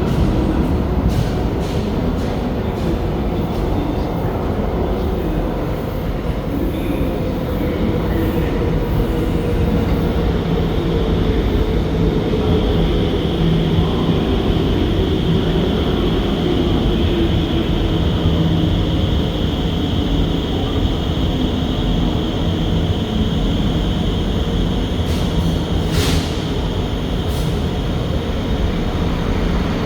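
An SMRT R151 metro train heard from inside the car while running. There is steady rumble and running noise with a low motor whine that slowly falls in pitch, and a thin high tone through the middle. A sharp click comes near the end.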